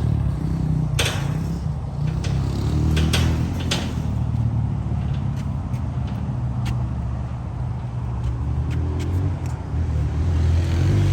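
Steady low motor vehicle drone, with a few sharp clicks and knocks in the first four seconds.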